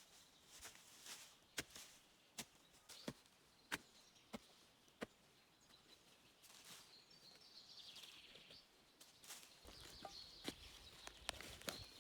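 Quiet outdoor ambience: scattered sharp clicks and knocks, and a faint bird call about seven seconds in.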